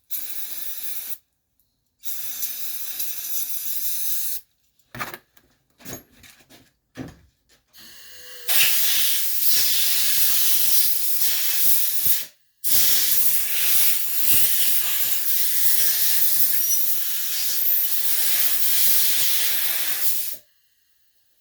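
Loud hissing blasts of pressurized spray: a few short spurts, then two long blasts of several seconds each, each cutting off abruptly.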